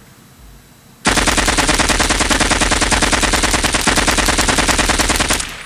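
Rapid automatic machine-gun fire: one long unbroken burst of fast, evenly spaced shots that starts about a second in and cuts off abruptly near the end.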